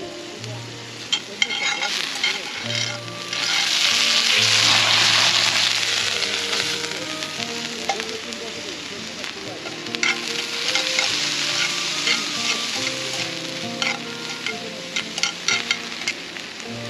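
Food sizzling and frying in a hot pan, with scattered pops and stirring. The sizzle swells twice, about three seconds in and again about ten seconds in, over background music.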